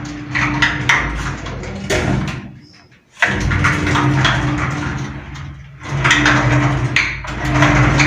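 Sliding glass shower door pushed back and forth along its track three times, its roller wheels grinding with a steady low hum on each pass. The rollers' bearings are dry, without lubrication.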